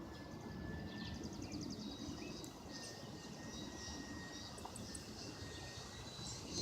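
Faint steady whine of a small electric RC airplane's motor and propeller in the distance, its pitch rising slightly near the end as it approaches. Birds chirp, with a quick trill about a second in, over a low wind rumble.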